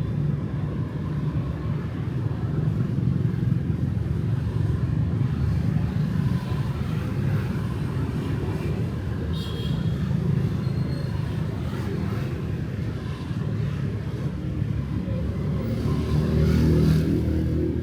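Street traffic of motorbikes and cars passing in a steady rumble of engines and tyres, with a short high beep about halfway through and one vehicle passing louder near the end.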